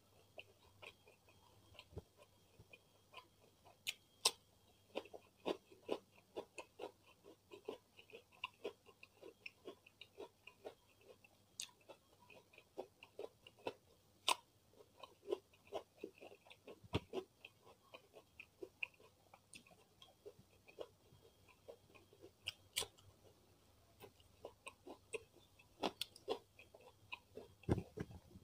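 Soft, close-miked chewing and lip smacking of a mouthful of rice and beef rendang, with crisp bites of raw cucumber, heard as a dense run of small irregular clicks and wet smacks.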